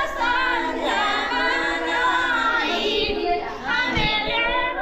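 A group of women singing a traditional wedding folk song (geet) together, several voices at once.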